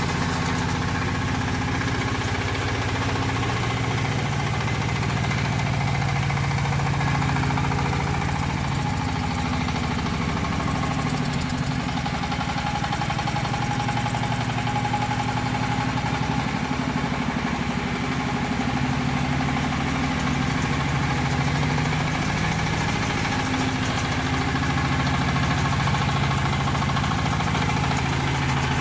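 Engine of a 40 HP crawler mini tractor running steadily at a fairly constant speed.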